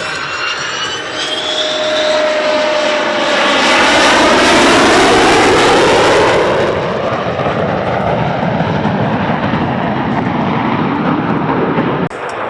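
A Thunderbirds F-16 jet making a low, slow pass. The engine sound builds to its loudest about four to six seconds in, then falls in pitch as the jet goes by. It cuts off abruptly near the end.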